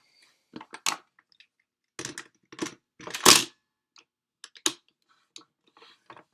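Hard plastic parts of the DX Cube Wolf and Zyuoh King toys clicking and snapping together as the robot is assembled by hand: a run of short, irregular clacks, the loudest a little past three seconds in.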